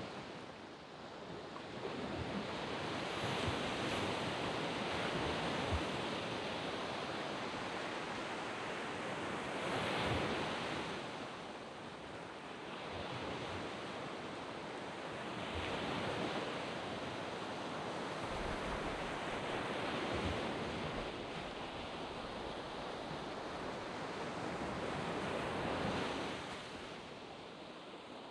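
Waves breaking and washing up a sand beach, the surf swelling about every five to six seconds between softer stretches of wash, with some wind on the microphone.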